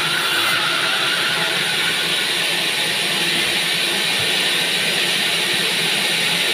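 Sawmill bandsaw running steadily, a continuous loud hiss over a low machine hum.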